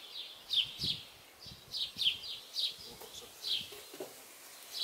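A small songbird chirping: a run of short notes that fall in pitch, about two a second, with faint low knocks underneath.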